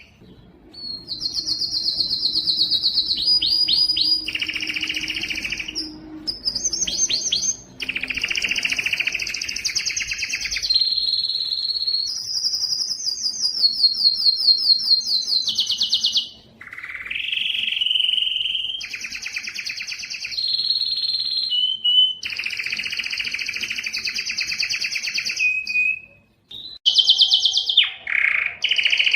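Domestic canary singing a long song made of rapid trills, each held for a second or two before it jumps to a new pitch, with a few short breaks.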